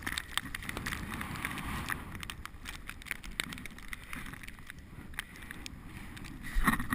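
Bicycle riding over snow: a steady low rumble with many irregular rattling clicks from the bike and some wind on the microphone, and a louder knock shortly before the end.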